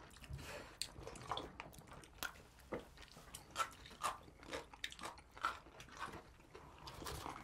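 People chewing pizza close to the microphone: many short, irregular crunches and mouth clicks, faint.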